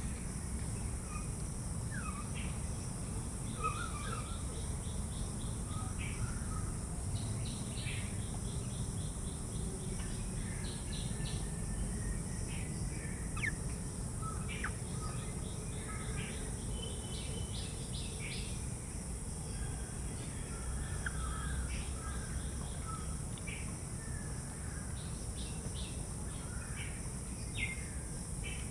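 Small birds chirping, many short scattered calls, over a steady low background rumble.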